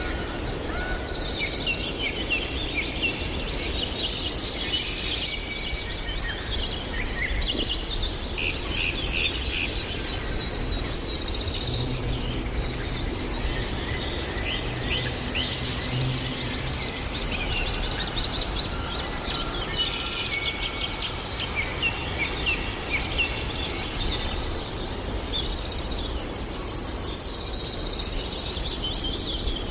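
Several songbirds singing and calling at once, with many overlapping chirps and rapid trills, over a steady low background noise. A faint low hum joins briefly around the middle.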